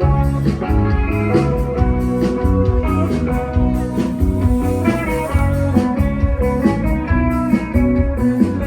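A live band playing an instrumental passage led by guitar, with bass and a steady beat.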